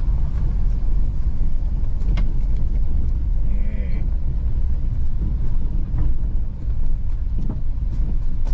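Steady low rumble of a vehicle driving, with a few light knocks and rattles.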